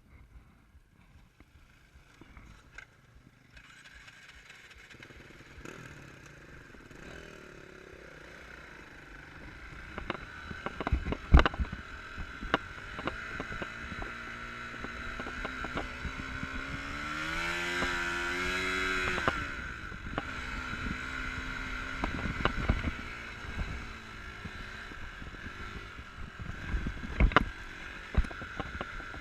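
Enduro dirt bike engine running, revving up for a few seconds about halfway through and then easing off, with a few sharp knocks and clatter.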